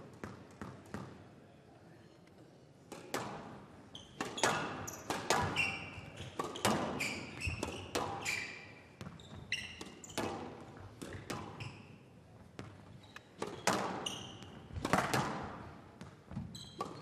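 Squash rally: the ball cracking off rackets and the walls at an irregular pace, with shoes squeaking on the court floor. The first few seconds are quieter before the hitting starts.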